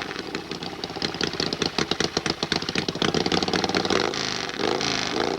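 Hillclimb motorcycle engine running roughly with uneven, popping pulses, then revved up and back down near the end.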